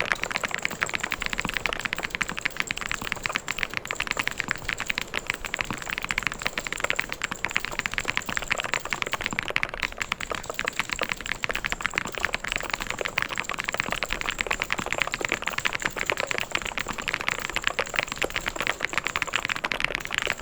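Continuous fast typing on a mechanical keyboard: a dense, even stream of key clicks with no pauses.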